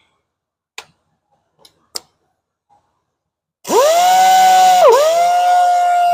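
A few small clicks, then a power sander's motor starting up about four seconds in: a loud whine that climbs quickly to a steady pitch, sags briefly about five seconds in and comes back up.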